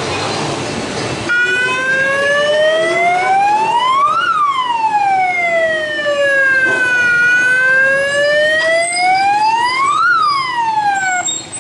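Siren wailing in slow rises and falls: it starts abruptly about a second in, sweeps up twice and down twice, and cuts off just before the end.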